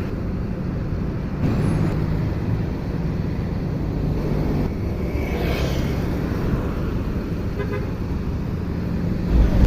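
A bus engine running steadily at idle, a low even hum, with a brief hiss about halfway through.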